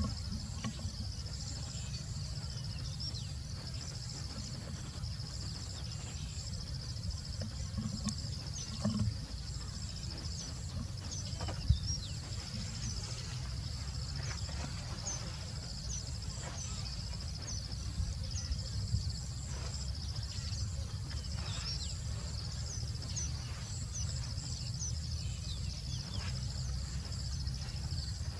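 Steady chorus of insects, a pulsing high drone with short higher chirps over it, above a constant low rumble. A few brief knocks, the sharpest about twelve seconds in.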